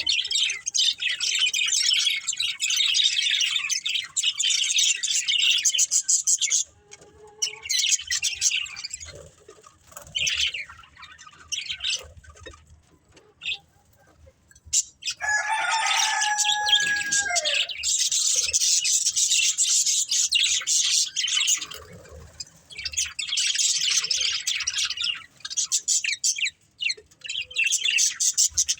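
Budgerigars chattering and warbling in long runs of rapid high chirps, thinning to scattered chirps for several seconds in the middle. About fifteen seconds in comes one lower, drawn-out call lasting a second or two before the dense chatter resumes.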